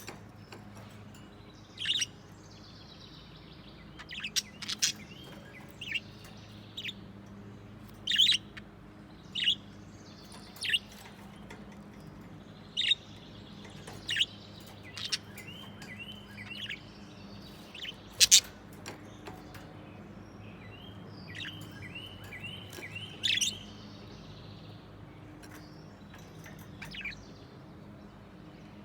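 Budgerigars chirping: short, sharp calls scattered irregularly, with a couple of runs of quick chattering notes, over a faint steady hum.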